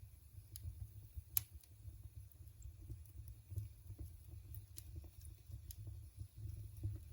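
Wood fire crackling: scattered sharp pops and snaps over a low steady rumble, with one loud pop about a second and a half in.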